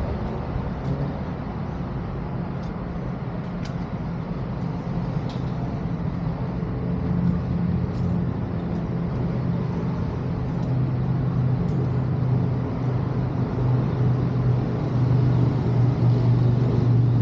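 Motorcycle engine idling steadily, growing louder toward the end.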